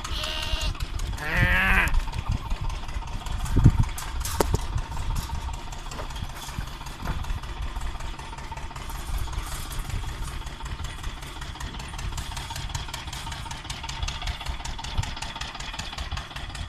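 A farm engine running steadily, with a single livestock bleat about a second in and a low thump near four seconds in.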